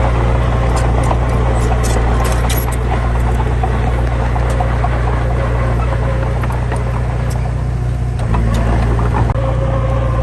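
Heavy diesel engine running steadily with a deep drone, with scattered sharp clicks and metallic ticks over it; the engine note shifts slightly about eight seconds in.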